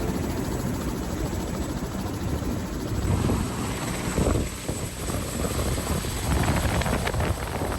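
Helicopter running: a loud, steady wash of rotor and engine noise. The sound shifts abruptly about three seconds in.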